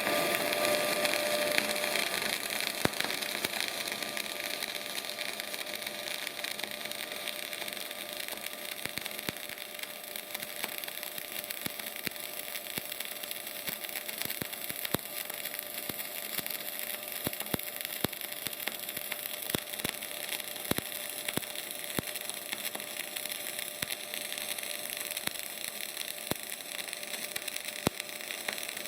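Semi-automatic MAG (CO2) welding arc burning steadily: a continuous hiss with frequent irregular sharp crackles.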